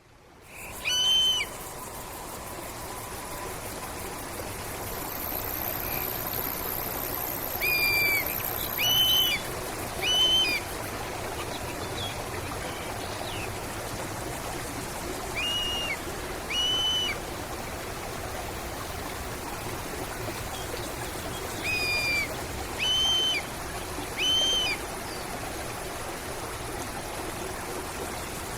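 A stream or river flowing steadily, with a bird calling over it: clear whistled notes, each rising then falling, given singly and then in runs of two or three about a second apart, repeated several times.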